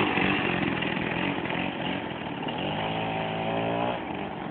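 Tuned 49cc two-stroke Vespino moped engine revving hard, its buzzing note gradually getting quieter. About three seconds in, the revs climb in a rising whine, then drop off.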